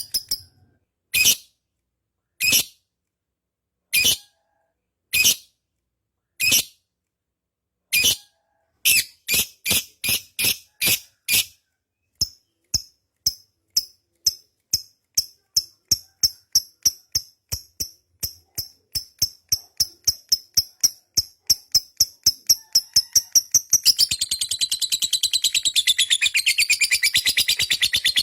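Lovebird giving a long ngekek: sharp single chirps about a second and a half apart that speed up into a rapid run of several chirps a second, then break into a continuous shrill chatter near the end.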